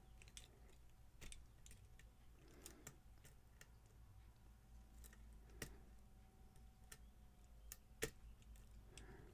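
Faint, scattered clicks and ticks of a lock pick and tension wrench working the pins of a challenge lock during picking, with a slightly louder click about five and a half seconds in and another about eight seconds in.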